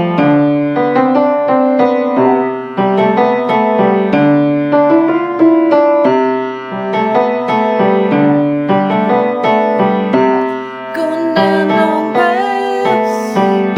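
Piano music, a keyboard playing a continuous run of notes and chords.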